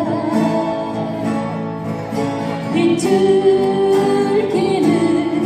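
Live folk song with singing over acoustic guitar accompaniment. About three seconds in, a note is held steadily for over a second.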